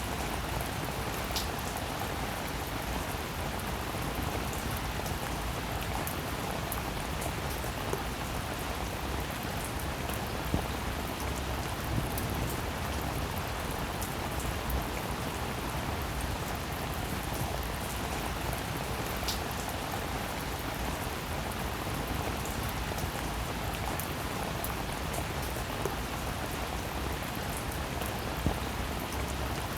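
Steady rain falling, an even hiss of drops with occasional sharper, louder single drop taps scattered through it.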